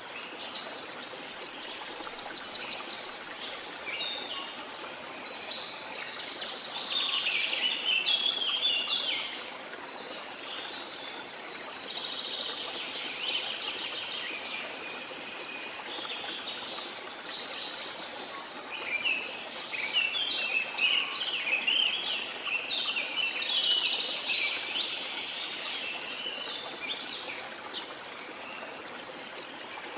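Birds singing in rapid trilled phrases, over the steady rush of a waterfall. The loudest bursts of song come about a quarter of the way in and again past the middle.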